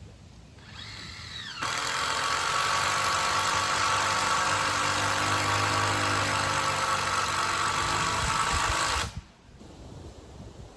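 A handheld power tool spinning up with a rising whine, then running loud and steady under load for about seven seconds before stopping abruptly.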